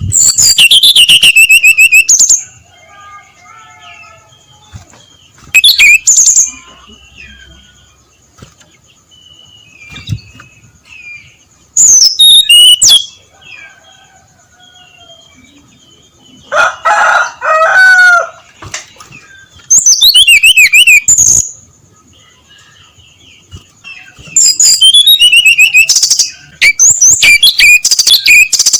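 Brown-chested jungle flycatcher singing loud, rapid, varied whistled phrases, each one to two seconds long, about seven in all with short pauses between. Fainter bird notes and a thin steady high tone carry on in the gaps.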